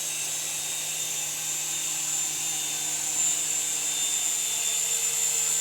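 Small electric RC helicopter running, its motor and rotors giving a steady high-pitched whine with a faint hum underneath.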